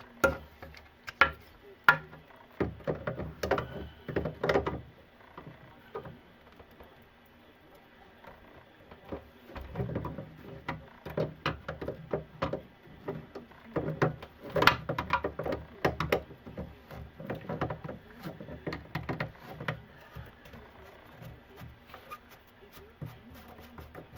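Irregular knocks, clicks and clatter of hand tools against pipe fittings and a wooden sink cabinet as plumbing is worked loose. The sounds come in clusters, with a quieter lull partway through.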